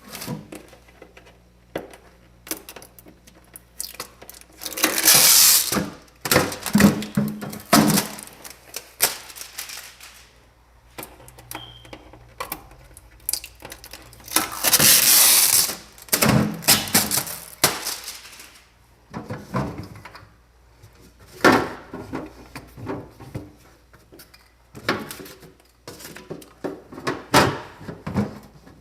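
Scattered knocks, thunks and clatter of things being handled, with two louder drawn-out rustling or scraping noises about five and fifteen seconds in.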